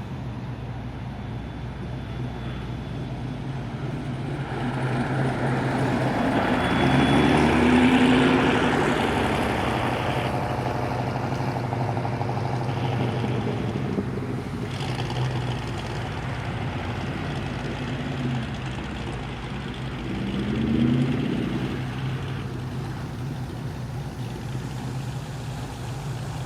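Cars or trucks driving past on the street, with a steady engine running throughout. One vehicle passes louder about eight seconds in, its engine pitch shifting as it goes by, and a second, smaller one passes a little after twenty seconds in.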